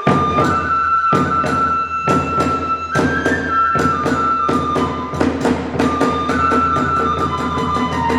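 Kagura festival music: a bamboo transverse flute plays a long held melody that steps up and down, over regular drum beats and hand-cymbal clashes, striking up suddenly at the start.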